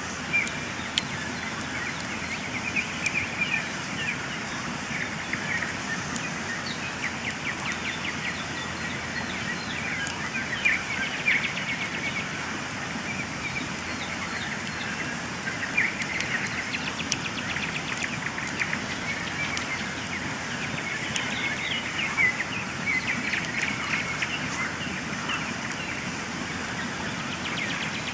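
Campfire crackling with scattered sharp pops, while small birds chirp and trill in a pre-dawn chorus over a steady hiss.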